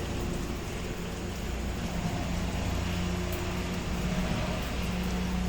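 A steady low engine hum, like a vehicle running, over an even hiss of rain.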